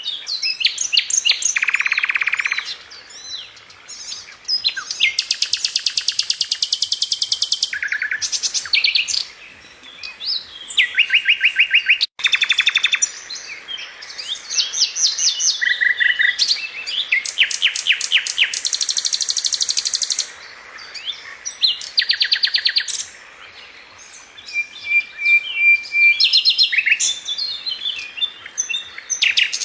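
Songbirds singing: fast trills of rapidly repeated high notes and varied chirps in phrases a second or two long, one after another, with a momentary break about twelve seconds in.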